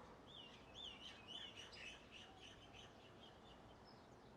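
A songbird singing faintly: a quick run of high, swooping chirps that breaks into faster notes and fades out about three and a half seconds in.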